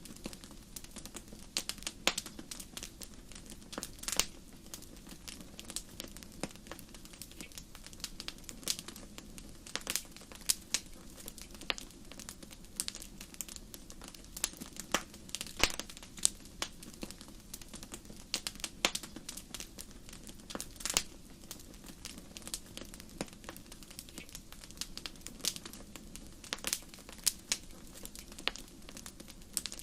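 Wood fire crackling in a fireplace: irregular sharp pops and snaps, several a second with louder ones every second or so, over a steady low hiss of burning.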